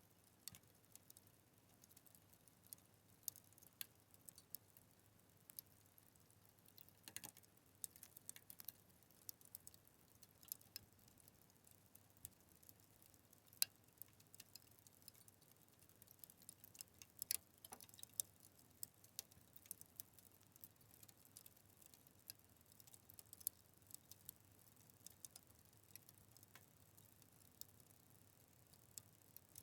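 Wood fire crackling softly: irregular sharp snaps and pops, some close together and some spread out, over a faint background hiss.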